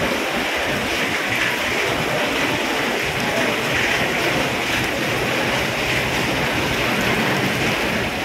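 Steady hiss of falling rain, with wind rumbling on the microphone.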